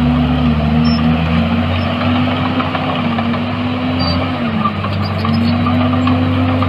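Heavy diesel engine of earthmoving equipment running steadily under load. Its pitch dips about four and a half seconds in, then rises again.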